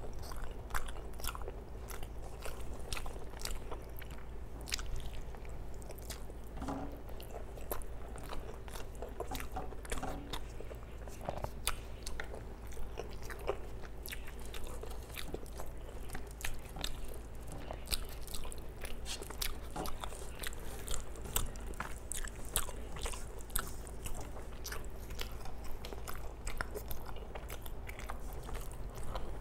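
Close-miked eating sounds: chewing with wet mouth clicks and smacks as rice and curry are eaten by hand, and fingers squishing rice against a steel plate. Many small clicks run throughout over a faint steady hum.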